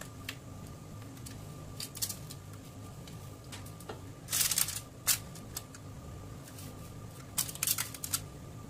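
Crisp caramel-coated popcorn rustling and clicking on a tray as it is handled, in short irregular bursts with a longer rustle about halfway through and another cluster near the end.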